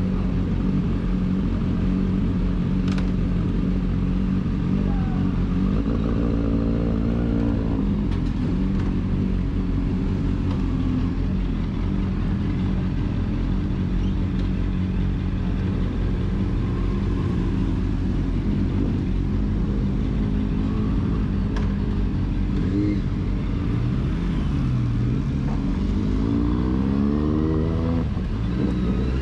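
Sport motorcycle engine running steadily, its pitch rising as it accelerates twice, about six seconds in and again near the end.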